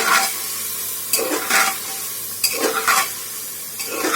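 Chicken and dry spices sizzling in hot oil in a pressure cooker, stirred with a spoon that scrapes around the pot about once every second and a half.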